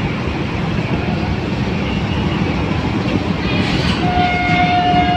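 Train running with a steady rumble; about four seconds in a steady high tone comes in and holds.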